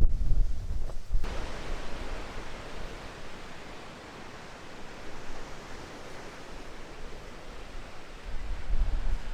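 Strong wind blowing, buffeting the microphone with a heavy low rumble at the start and again near the end. In between is a steady rushing hiss.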